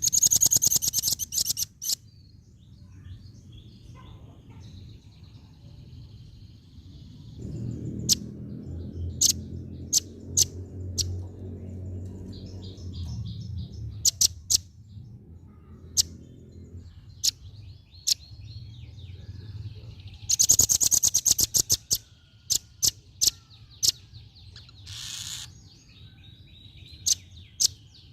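Female velvet-fronted nuthatch calling in fast trills of sharp, clicky notes: one burst at the start and another about two-thirds of the way in, with single sharp chips scattered between. A low rumble sits under the calls for several seconds in the middle.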